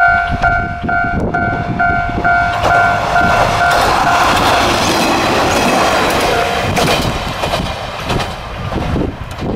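A level-crossing alarm sounds a two-tone electronic chime about twice a second. The diesel railcar KiHa 2202 then passes over the crossing, its engine and wheels rumbling with clacks over the rail joints, and drowns out the chime about four seconds in.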